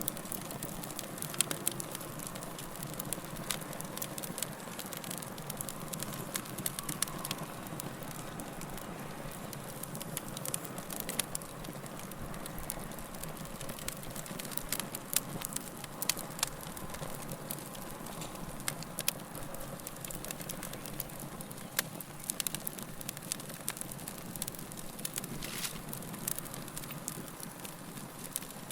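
Burning fire crackling: a steady low rush of flames with frequent sharp, irregular pops and snaps throughout.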